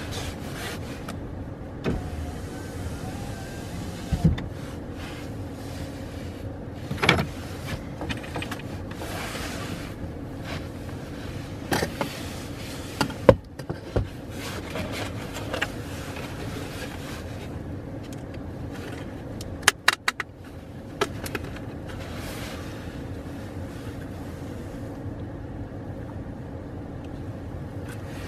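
Car engine idling, a steady low hum heard from inside the car, with scattered knocks and clicks from things being handled in the cabin, several in quick succession about twenty seconds in.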